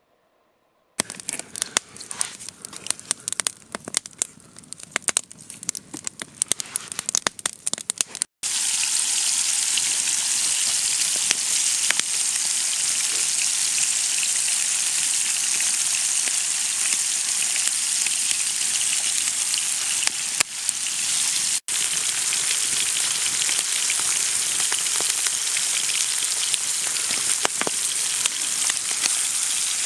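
Food frying in a pan. It starts with scattered spitting crackles, then after a sudden break about eight seconds in, a steady dense sizzle.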